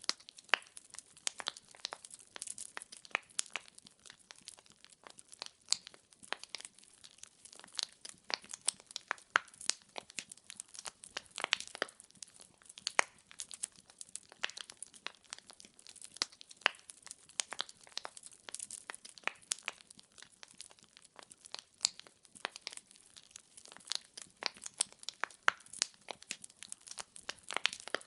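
Burning wood fire crackling: a continuous stream of small, irregular pops and snaps from the burning logs, several a second, some louder than others.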